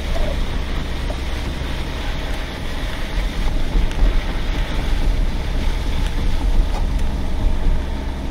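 A car being driven, heard from inside the cabin: a steady low rumble of engine and tyre noise.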